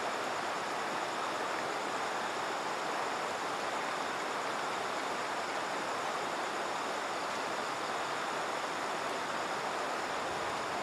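Steady rush of a river's flowing water, even and unbroken.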